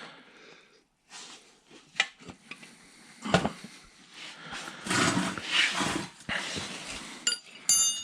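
Hand tools, bolts and nuts clinking and clattering against metal while bolts are fastened through a bell housing, with a few sharp knocks and short ringing metallic clinks near the end.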